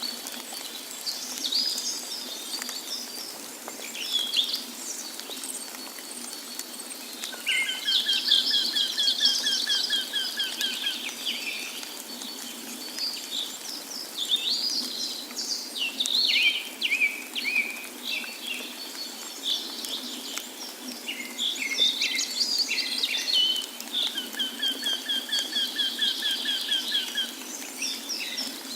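Several songbirds singing and chirping, with repeated rapid trilled songs twice, over a steady rushing hiss from a waterfall.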